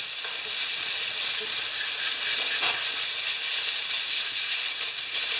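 Compressed air blowing in a steady, loud hiss, clearing dirt and debris off an old Tecumseh-engined mower; it cuts off suddenly near the end.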